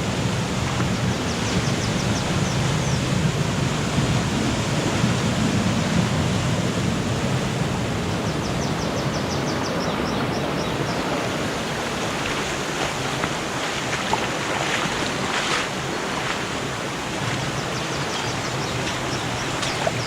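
Steady rushing of a rainforest stream or waterfall. A high, rapid trill of short notes sounds three times over it, with a few brief high chirps in between.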